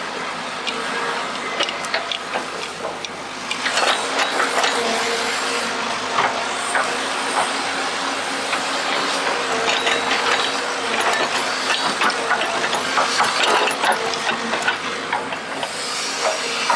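RC hydraulic excavator working, its pump running with a steady whine under a busy crackle of small clicks and scrapes as it digs; the sound steps up about three and a half seconds in.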